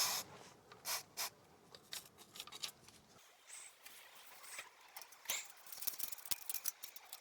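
Screwdriver scraping and picking caked dirt and gunk out from around a motorcycle's front sprocket: a run of short, irregular scratches and clicks, a few louder ones in the first second and a denser patter of small ticks later.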